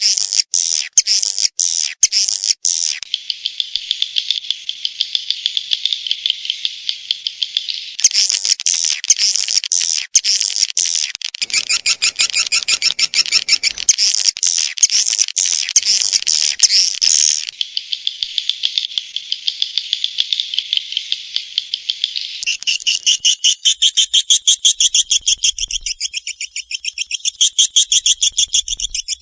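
Swiftlet (walet) lure-call recording, the kind played to draw swiftlets into a nesting house: dense, fast, high twittering chirps repeated many times a second. The pattern changes every several seconds, from clipped chirp runs to a smoother trill and back.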